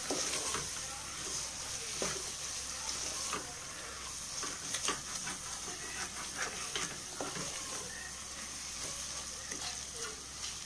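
Onion-tomato masala with ground spices sizzling in oil in an aluminium pressure cooker pot, with a spatula scraping and stirring it in irregular strokes. The masala is being fried until its raw smell is gone.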